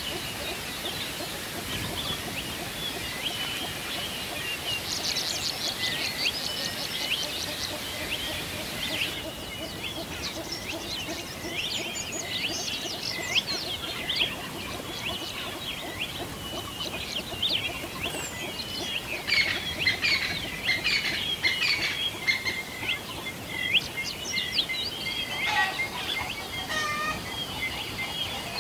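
Songbirds chirping and singing together in many overlapping short calls and trills, with a faint steady hiss that cuts off about nine seconds in. Near the end a few lower calls join in.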